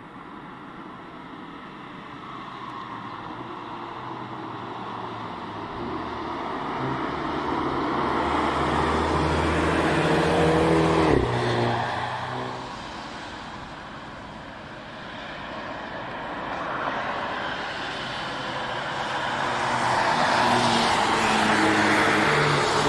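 Hyundai i30 N prototype's turbocharged four-cylinder engine passing at speed on the track: it grows louder to a peak about eleven seconds in, drops off with a falling pitch as it goes by, then a car approaches again, loud, near the end.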